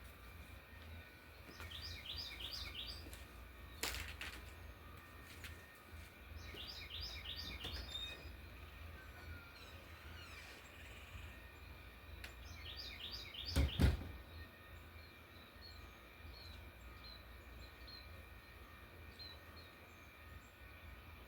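A songbird singing a short phrase of quick repeated high notes, three times about five seconds apart, over a low steady rumble. There is a sharp click about four seconds in, and a heavy thump near fourteen seconds is the loudest sound.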